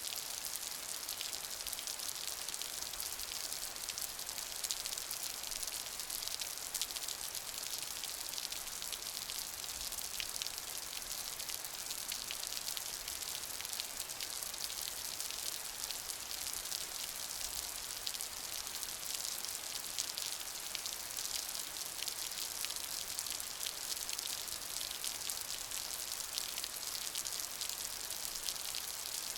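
Steady rain with many small drops pattering, a dense even hiss weighted toward the high end.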